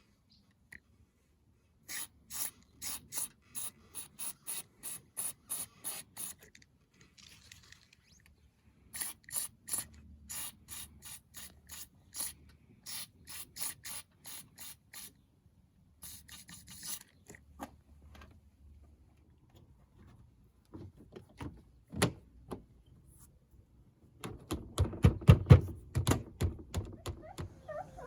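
Quick repeated strokes, about three or four a second in two long runs, as a care product is rubbed or sprayed onto the rubber window seal of a Mini to stop it squeaking. A sharp click comes later, then a few louder dull knocks near the end.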